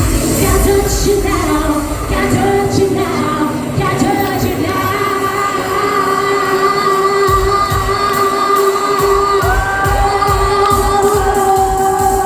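Live dance-pop music: a female lead vocalist holds a long sung note over synths and a thumping beat, and the beat drops out for a few seconds in the middle before coming back.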